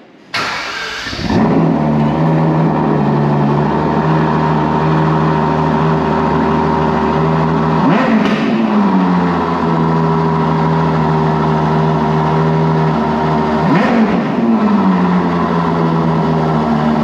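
Ferrari 812 GTS's naturally aspirated 6.5-litre V12 cold-started: it fires up, flares and settles into a steady idle. It is blipped twice, each a quick rev up and back down, about eight and fourteen seconds in.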